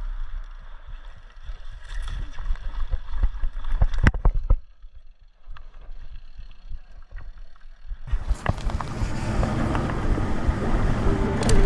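Mountain bike riding a dirt trail: tyre rumble with sharp knocks and rattles over bumps, a quieter stretch in the middle, then a louder, steady rush of rolling and wind noise from about eight seconds in.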